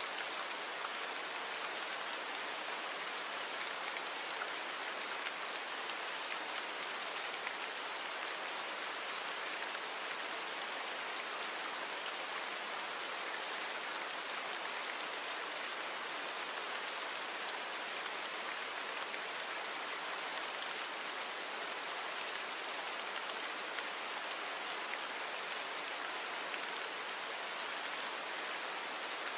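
Steady rainfall: a dense, even patter of raindrops with a high hiss and almost no low rumble.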